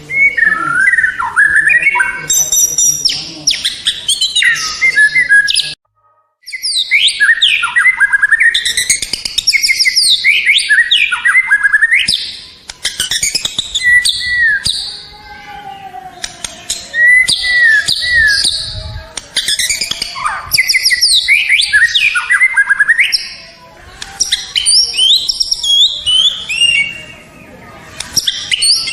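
White-rumped shama (murai batu) singing a long, varied song of loud whistles, rapid trills and sweeping phrases, with a brief break about six seconds in.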